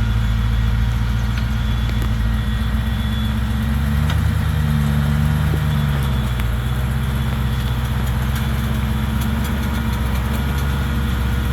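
Off-road truck engine idling at low revs, with a brief, slight rise in revs about four seconds in before it settles back to idle.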